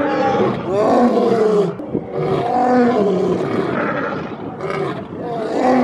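Lion roaring: a run of long, loud roars, one after another with short breaks between them.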